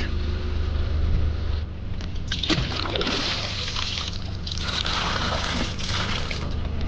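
Water sloshing and splashing in two stretches, about two seconds in and again from about four and a half seconds, over a steady low hum.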